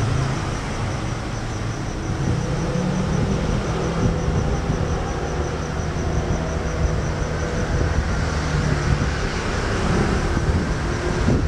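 Steady low rumble of a train approaching along the line from a distance. A faint high chirping pulses about four times a second.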